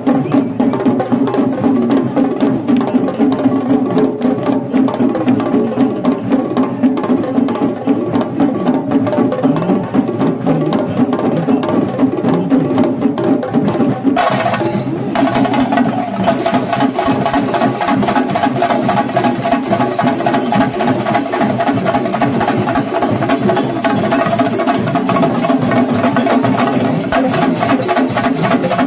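Rapid, continuous stick drumming from a Kerala temple percussion ensemble of chenda drums. About halfway the sound shifts, and a steady high tone runs alongside the drumming from then on.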